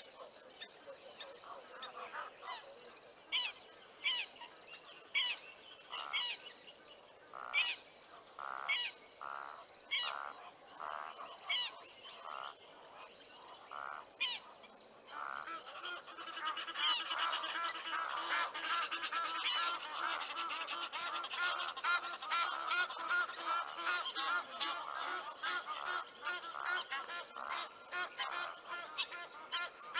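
Birds calling: a run of evenly spaced honks, about one a second, gives way about halfway through to a dense, continuous cackling chorus.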